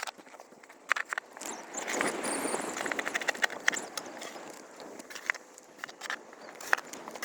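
Crunching and scraping in snow, loudest for about two seconds a couple of seconds in, with scattered sharp crackles and clicks on either side.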